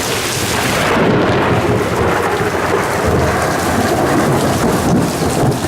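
Heavy rain pouring steadily, with a rumble of thunder that swells about a second in and keeps rolling.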